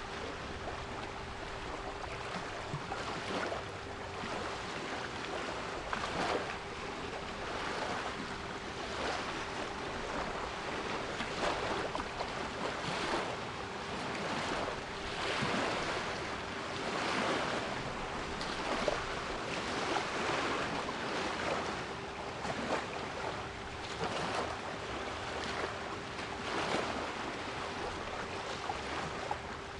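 Sea waves washing and breaking on the shore, an irregular rushing wash, with a steady 396 Hz pure tone held underneath.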